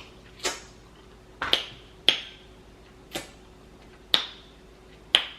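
Mouth smacks while chewing seafood: six sharp, wet clicks, roughly one a second.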